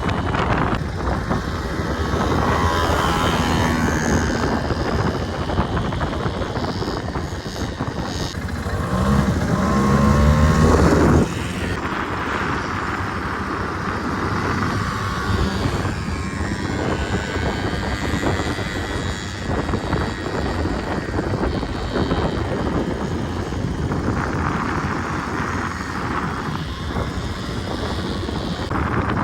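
Quad bike engine running under way with wind noise, revving up in a rising whine for a couple of seconds about nine seconds in, then dropping back to a steadier drone.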